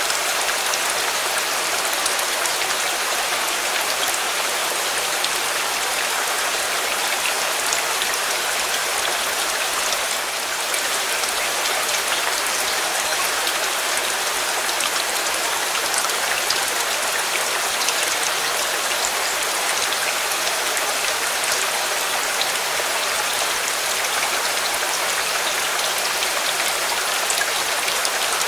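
Steady, dense rainfall, with many small scattered drop ticks over an even hiss.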